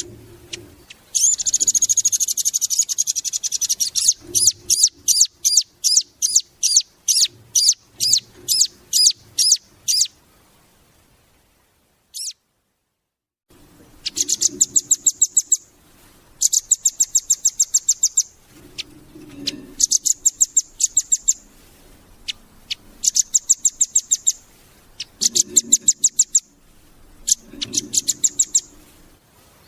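Velvet-fronted nuthatch singing: fast, high trills of rapidly repeated notes in bursts of one to two seconds. A run of slower, separate notes comes in the first third, and there is a pause of about three seconds near the middle.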